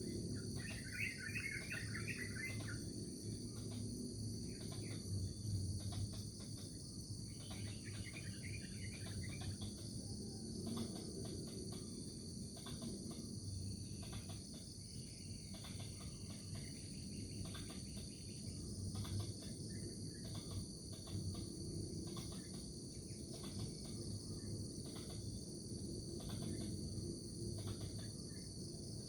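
Steady, high-pitched chorus of crickets or similar insects, with short bird trills about a second in and again around eight seconds, over a low steady background noise.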